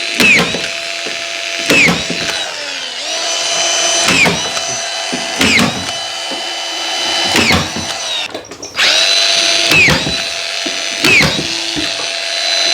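Hilti collated screw gun driving screws one after another into a plasterboard ceiling, about seven in a row. Each is a short high motor whine with a clicking start that winds down as the screw seats. The existing sheet is being re-screwed to the framing to pull out the waviness.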